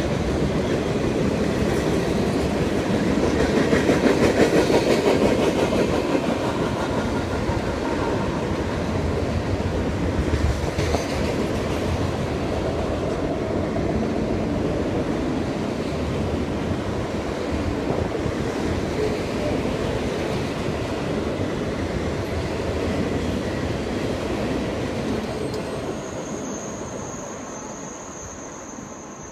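Freight train cars rolling past on the rails with a steady rumble, loudest about four to six seconds in and fading over the last few seconds as the end of the train goes by. A steady high-pitched tone comes in near the end.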